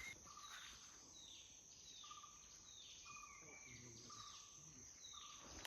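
Faint forest ambience: an animal call repeating about every three-quarters of a second, each call a quick falling note, over a steady high insect drone.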